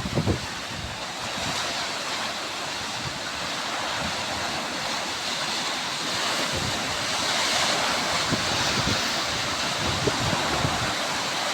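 Sea waves washing on the shore: a steady hiss of surf that swells slightly in the second half. Brief wind buffeting on the microphone at the very start.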